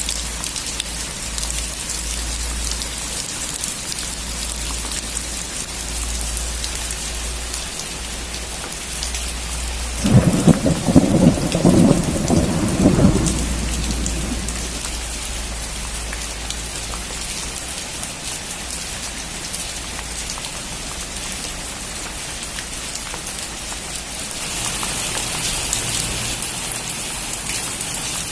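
Steady rain falling, with a clap of thunder about ten seconds in that rumbles for about three seconds. Near the end the rain turns a little louder.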